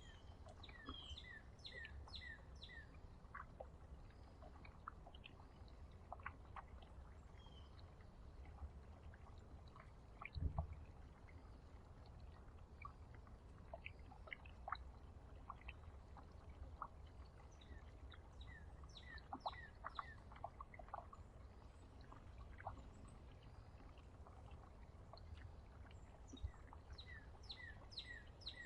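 Faint outdoor ambience of small birds chirping in three short bouts of quick repeated notes, with scattered light ticks and clicks and a low steady rumble underneath. A single thump comes about ten seconds in.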